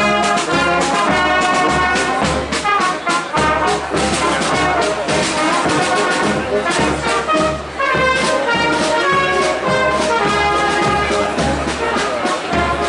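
Brass band playing a tune with trombones and trumpets over a steady drum beat.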